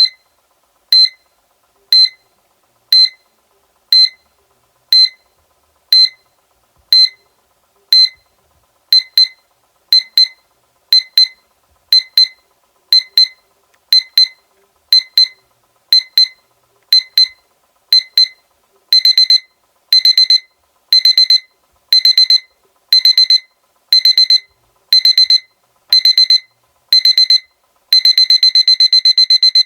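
Seiko alarm clock's electronic alarm beeping in a high tone, one short beep a second, then changing to longer bursts of rapid beeps each second, and running into almost continuous rapid beeping near the end: the alarm stepping up in urgency.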